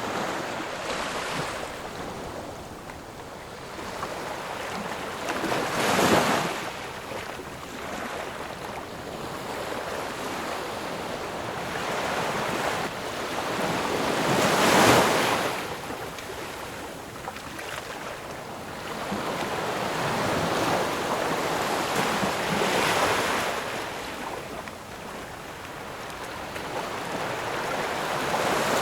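Sea waves breaking on a shore, a steady wash of surf that swells into louder crashes about every eight or nine seconds, with wind on the microphone.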